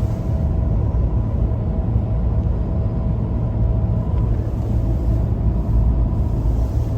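Steady low road rumble of a moving vehicle on the highway, with a faint steady hum over it.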